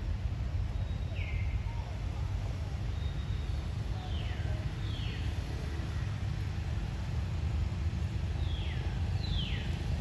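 Outdoor ambience: a steady low rumble under a series of short whistled bird calls that slide downward. There is one call about a second in, then two pairs, around four seconds and again near nine seconds.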